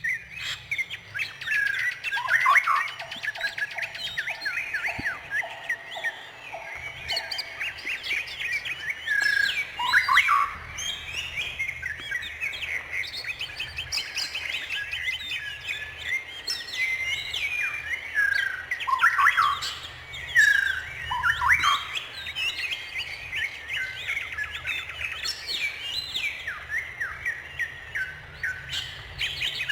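Several songbirds chirping and singing at once, a dense chorus of quick high chirps and trills. For a few seconds near the start, a lower note repeats about twice a second beneath them.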